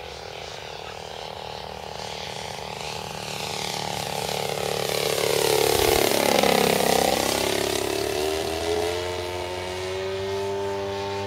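A large radio-controlled Seagull Edge 540 model plane's 50cc engine and propeller flying past: the engine note grows louder, peaks about six seconds in, then drops sharply in pitch as the plane passes and carries on at a lower, steady tone as it moves away.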